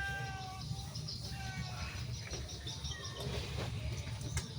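Short, repeated high-pitched animal calls, bird-like, over a steady low rumble.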